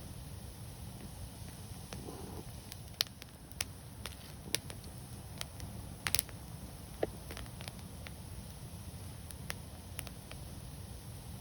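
Wood fire crackling: sharp, irregular pops and snaps, with a quick cluster about six seconds in, over the low steady rumble of burning flames.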